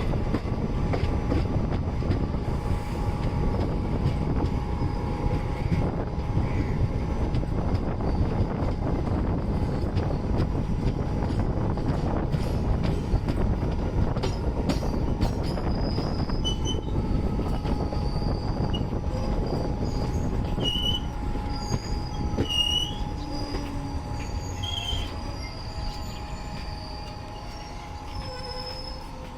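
Indian Railways sleeper-class coach running on the track: a steady, loud rumble of wheels and carriage, with short high squeaks in the second half. The rumble gets quieter near the end.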